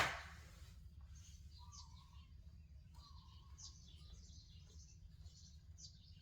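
A sharp knock right at the start, then small birds chirping over and over in short high notes, with a few brief lower whistles.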